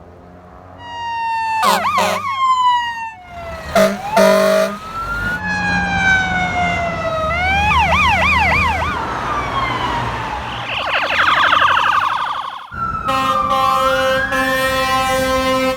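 Fire engine siren sounding as the truck responds, its pitch rising and falling in long wails and switching to a fast yelp, with short horn blasts about two and four seconds in.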